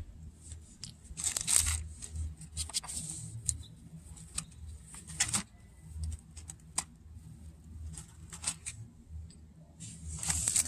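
Small parts being handled at a tire valve stem: scattered light clicks and short rustling, scraping bursts over a steady low hum.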